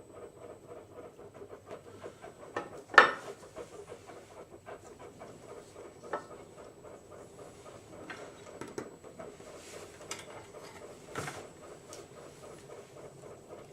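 Scotch-Brite pad scrubbing the corroded shaft of a GM HEI distributor in quick, even back-and-forth strokes to clear rust and buildup. A sharp knock about three seconds in and a couple of lighter knocks later.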